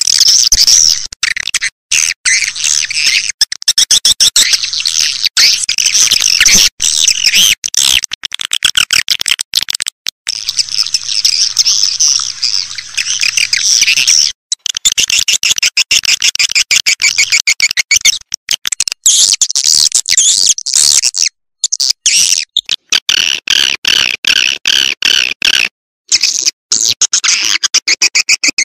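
Swiftlets calling in a dense, rapid, high chatter that comes in long runs broken by short pauses. This is the lure call played to draw swiftlets into a nesting house.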